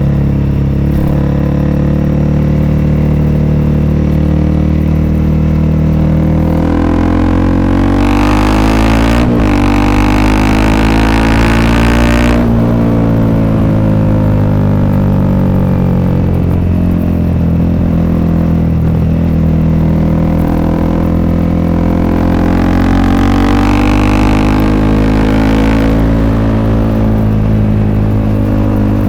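Honda CRF300L's single-cylinder engine running through an FMF Q4 aftermarket exhaust, heard on board while riding. The engine revs up about six seconds in, with a sharp break in the note near nine seconds, eases off by about twelve seconds, then rises and falls again more gently in the second half.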